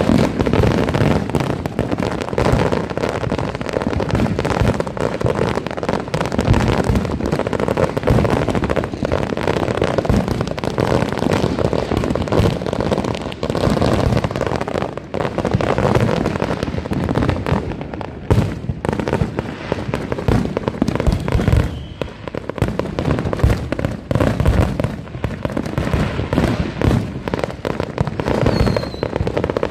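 Dense, unbroken barrage of consumer fireworks and firecrackers set off by many households at once: rapid, overlapping bangs and crackling with no pause.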